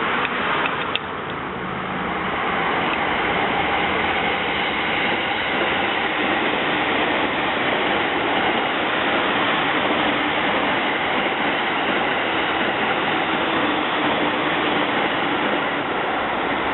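Train running past, a steady rush of wheel and running noise that builds over the first two seconds and then holds, with a faint whine in it.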